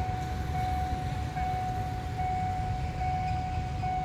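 Railway level-crossing warning alarm sounding as a train approaches: a single steady electronic tone that breaks and restarts about once a second, over a low steady rumble.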